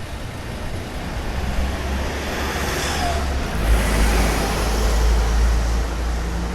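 Road traffic: a motor vehicle passes by, its noise swelling and then fading about three to four seconds in, over a steady low rumble.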